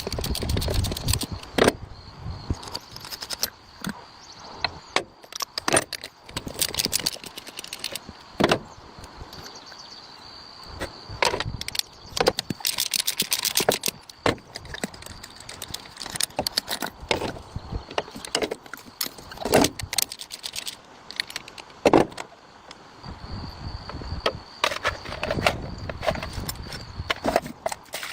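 Irregular metallic clinks and knocks of hand tools and engine parts being handled while working on a diesel engine, with a faint steady high whine behind them.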